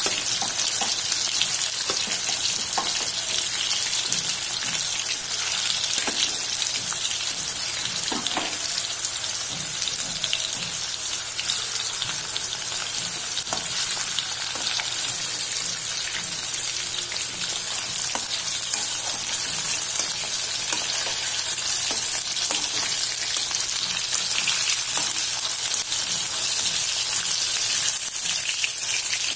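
Chicken kofta balls frying in hot oil in a kadhai: a steady sizzling hiss with scattered crackles and pops.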